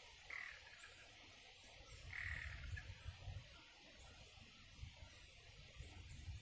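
A bird calling twice, two short high notes about two seconds apart, over a faint steady outdoor hiss, with some low rumbles in between.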